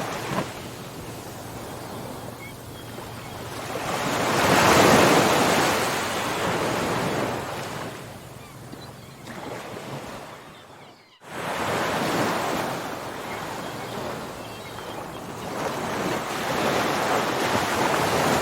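Ocean surf, waves rushing in and washing back in slow surges; the loudest wave comes about five seconds in. Just before the middle the sound cuts out for a moment, then the surf picks up again.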